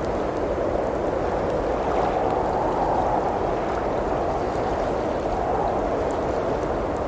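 Blizzard wind blowing steadily in a deep rushing band that swells and eases slightly, with a few faint crackles of a wood fire on top.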